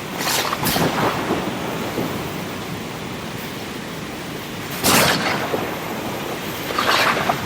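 Thunderstorm over the sea: a steady rush of surf and rain, broken by sharp cracks of thunder just after the start, at about five seconds and again near the end.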